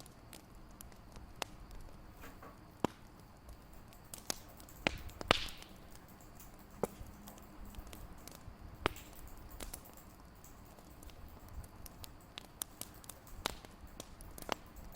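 Fireplace fire crackling: irregular sharp pops and snaps over a low steady rumble, with a louder pop and brief hiss about five seconds in.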